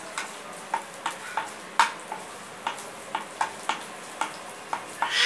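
Chopped ginger and garlic frying in hot oil in a non-stick pan, stirred with a wooden spatula: a steady sizzle broken by sharp clicks and pops a few times a second. A louder rush of sizzle swells up right at the end.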